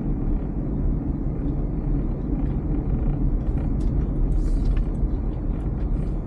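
Honda car being driven on a snowy road: a steady low rumble of engine and tyres, with a few faint clicks in the second half.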